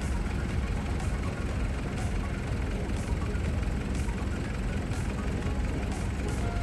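Large diesel engine running steadily at idle, with faint regular ticking about once a second.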